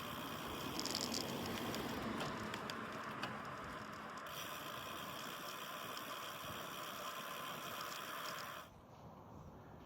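Steady rushing wind and road noise from a bicycle ride, picked up by a phone mounted on the bike, with a few faint rattling ticks. The noise drops off suddenly near the end.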